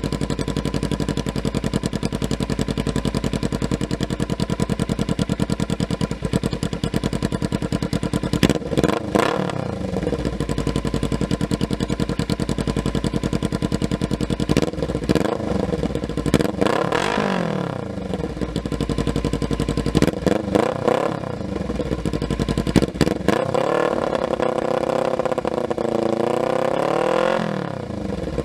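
Kawasaki Ninja 300 parallel-twin engine running through an aftermarket exhaust: steady idle, then revved in several throttle blips. There are short blips about a third of the way in and again past two-thirds, a longer rise and fall in the middle, and a held, wavering rev near the end.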